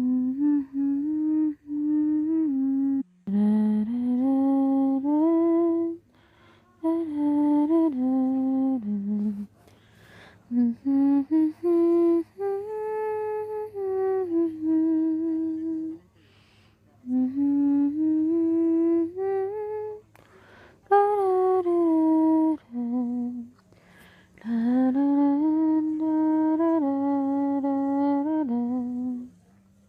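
A woman humming a slow lullaby without words, in short phrases of held, gliding notes with brief pauses for breath between them.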